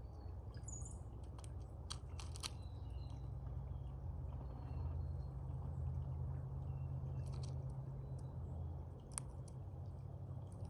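Crow pecking and crunching at food close to the microphone: scattered sharp taps and crunches, some in quick clusters, over a steady low rumble.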